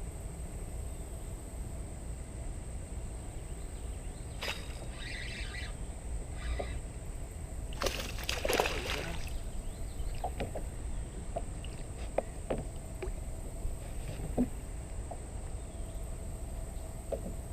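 Water sloshing and splashing around a small boat, with scattered clicks and knocks and a louder splash about eight seconds in.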